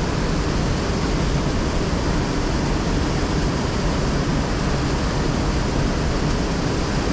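Fast-flowing river water rushing, a steady even noise with no breaks.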